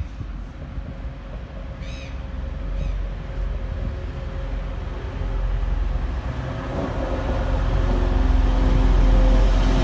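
A Class 185 diesel multiple unit approaching along the platform, its engine drone and wheel rumble growing steadily louder through the last few seconds. A bird calls briefly about two seconds in.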